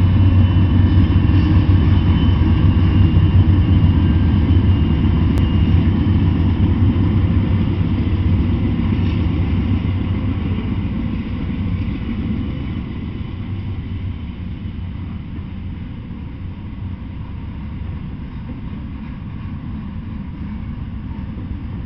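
Freight train passing close by: a heavy diesel locomotive drone at first, easing after about ten seconds into the lighter, steady rumble of double-stack intermodal container cars rolling along the rails.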